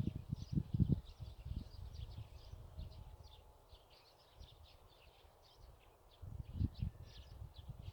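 Small birds chirping, many short quick calls one after another, with irregular low rumbles in the first second and again around six seconds in.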